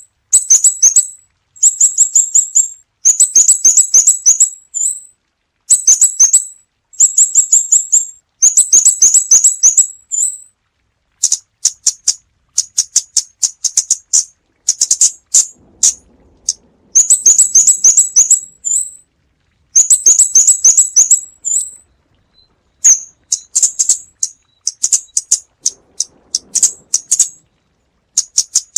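Scarlet-backed flowerpecker calling: rapid trains of high, sharp ticking notes in bursts of about a second, repeated after short pauses. The background is cleaned of noise.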